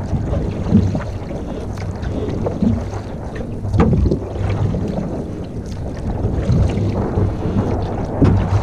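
Canoe paddling on a lake, with irregular dull splashes and knocks of the paddle about every one to two seconds. Wind buffets the microphone with a steady low rumble.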